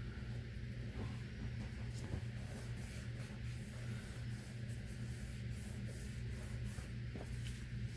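Soft rubbing, light scratching and small taps of paper pieces being handled and pressed down on a work table, over a steady low electrical hum.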